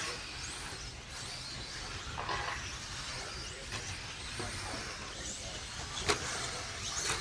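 Electric RC stock trucks racing on a dirt track: short motor whines rising and falling as they accelerate and brake, over a steady rushing haze, with one sharp knock about six seconds in.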